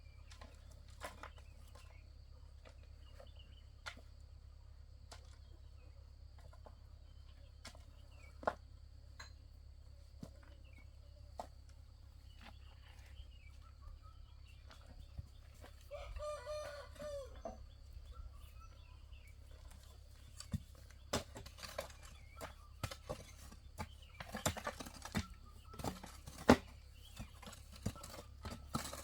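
A rooster crowing once, about halfway through, over scattered sharp clicks and knocks that come thicker in the last third.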